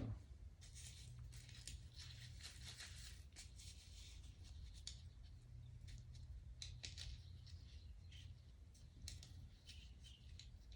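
Faint, irregular small clicks and scrapes of tools and small metal parts being handled during a motorcycle engine teardown, over a low steady hum.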